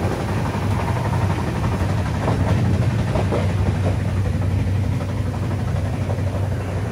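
Indian Railways passenger coach running, a steady low rumble heard in the vestibule by the toilet doors, with a few light rattles two to three seconds in.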